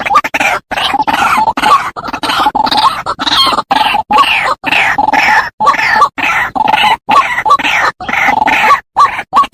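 White-breasted waterhen calling: a fast, continuous run of repeated calls, broken every half second or so by abrupt short silences.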